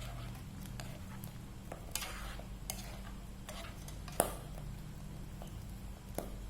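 Scattered clicks and knocks of kitchen utensils against dishes, the sharpest about four seconds in, over a steady low hum.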